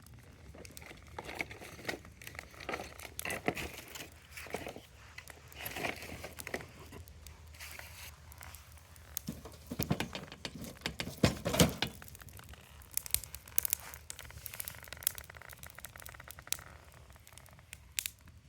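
Wood campfire crackling, with irregular sharp pops and crinkling; a thicker cluster of louder pops comes about ten to twelve seconds in.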